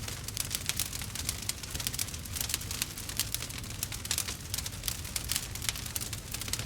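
Burning wood fire crackling, with many small pops in quick succession.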